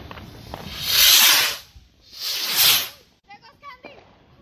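Two loud hissing whooshes from fireworks, each about a second long with a short gap between, as shots or rockets go up.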